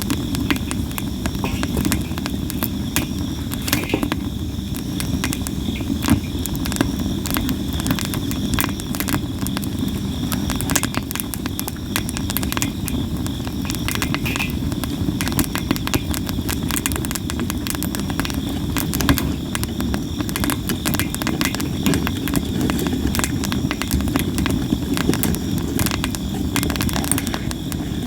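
Campfire of sawara cypress wood crackling and popping constantly, with many sharp snaps over a steady low rush of the burning fire.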